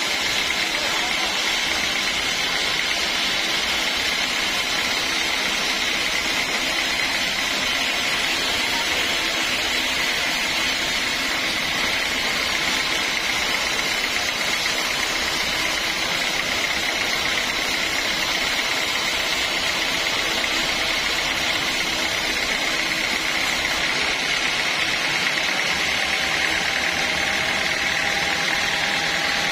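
Sawmill machinery running steadily, a continuous machine noise with a high steady whine.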